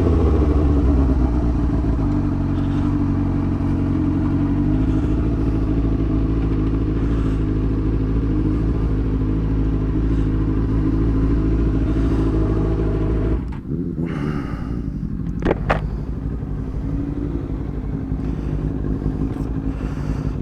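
Motorcycle engine running at a steady note, heard close to the bike. About thirteen seconds in it drops away to a quieter, rougher sound, with a sharp click shortly after.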